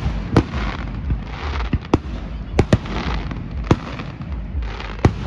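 Fireworks display: aerial shells bursting in about six sharp bangs, two of them in quick succession a little past halfway, with hissing swells between the bursts.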